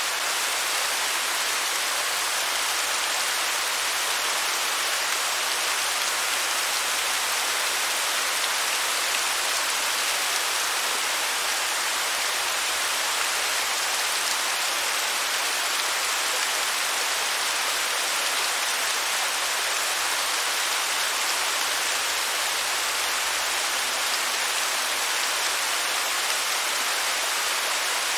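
Waterfall cascading: a steady, even rush of falling water, mostly hiss with little low rumble.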